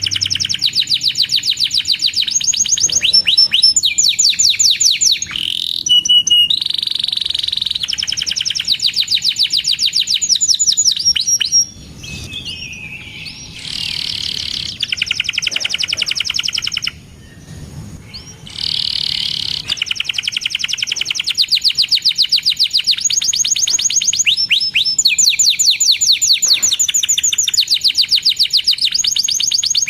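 Canary singing: long, fast trills of rapidly repeated high chirps, changing from one trill to the next, with two short quieter spells near the middle.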